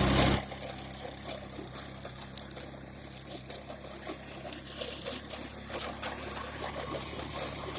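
A small engine idling steadily, with scattered light ticks and rattles over it; a loud rush of noise in the first half second.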